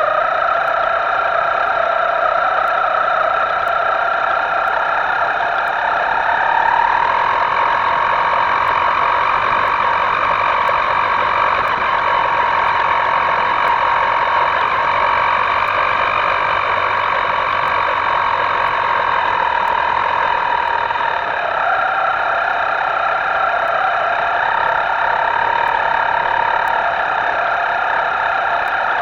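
Electric motor of a radio-controlled boat whining steadily, its pitch rising about seven seconds in as the throttle goes up and dropping back about twenty seconds later.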